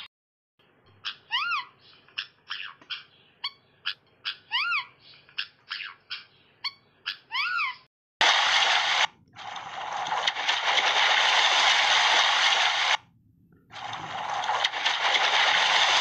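A bird's short calls, each rising then falling in pitch, repeated irregularly about fifteen times. Then a loud, steady rushing-water hiss that breaks off briefly twice.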